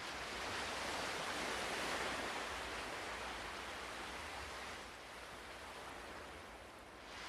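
Ocean waves washing on a shore: a soft surge that builds over the first two seconds and slowly recedes, with the next wave starting to rise near the end.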